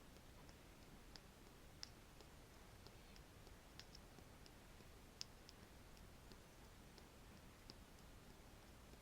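Faint, irregular light clicks from a wooden stick being tapped, one or two a second, with sharper clicks about two seconds and five seconds in.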